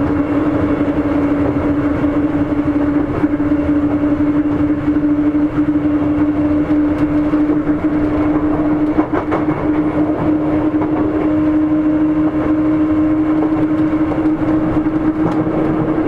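Sotetsu 8000 series electric train running at steady speed, heard from inside the car: a strong, steady hum over continuous running noise, with a few wheel clicks over rail joints about nine seconds in.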